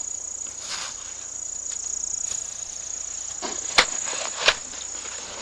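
Snow shovel scraping and chopping at packed snow and ice, with two sharp strikes a little under a second apart about four seconds in.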